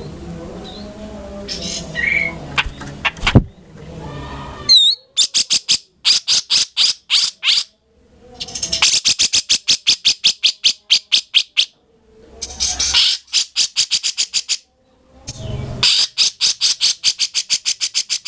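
Grey-cheeked bulbul (cucak jenggot) calling hard. It gives four fast trains of sharp, evenly repeated notes, each a few seconds long with short pauses between, after a softer, mixed opening with a single sharp click.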